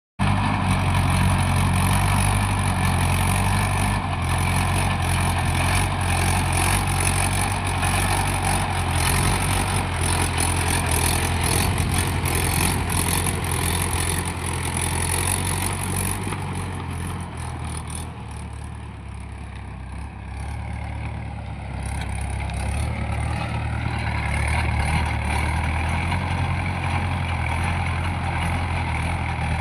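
A motor engine running steadily with a low hum. It dips a little quieter for a few seconds about two-thirds of the way through, then comes back up.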